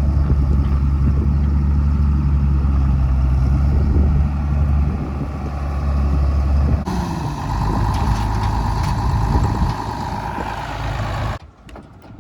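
Large farm tractor engine running at a steady idle. About seven seconds in the note changes, with a higher whine over it, and the sound drops away abruptly near the end.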